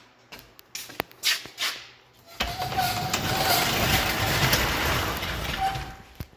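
Riding lawn mower engine running loudly for a few seconds, coming in suddenly after a few sharp clicks and knocks, then fading away near the end.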